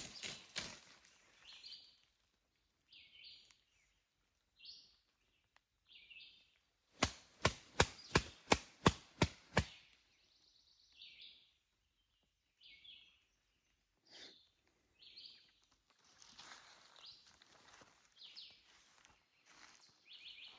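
Soft roosting-turkey calls made by a hunter imitating a wild turkey: short, high notes about one a second, with a quick run of about nine sharp, loud clicks a little past the middle.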